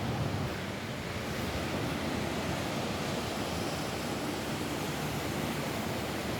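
Steady rain falling on a roof: an even, unbroken hiss with a deep rumble underneath.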